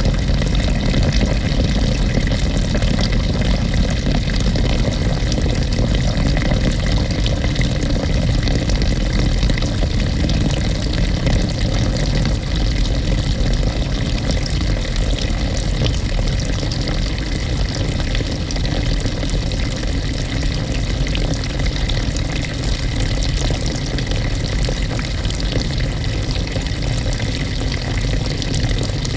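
Water rushing into the tub of a GE GTW220ACKWW top-loading washing machine as it fills, heard from a camera fixed to the agitator inside the tub. A steady, loud rush with a low rumble underneath, easing slightly after about twelve seconds.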